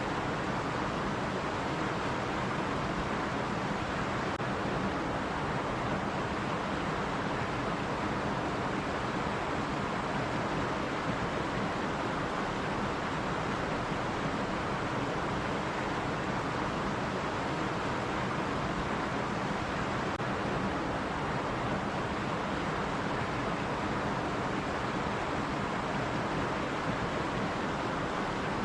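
A stream running over rocks: a steady, even rush of flowing water.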